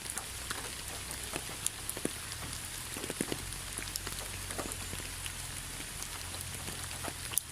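Rain falling steadily, a constant hiss with scattered individual drops ticking on a surface; one drop is noticeably sharper near the end.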